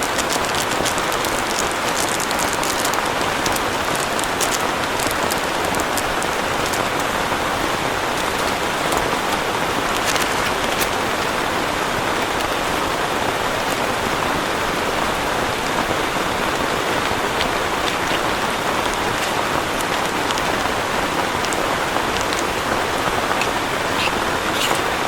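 Heavy rain falling steadily, with scattered sharper drops striking close by.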